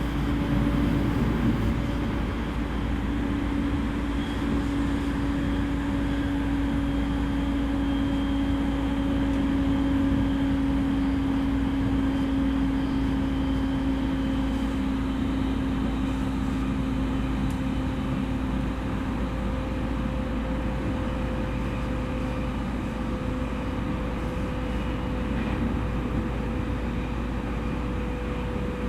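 Interior running sound of a JR East E231 series commuter EMU at speed: steady rumble of wheels on rail, with a motor tone that falls slowly in pitch.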